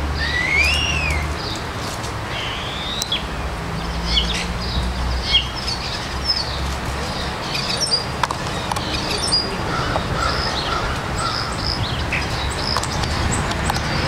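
Birds calling and chirping: an arched, rising-then-falling whistle near the start, then a rising whistle and many short chirps and whistled notes, over a low steady rumble.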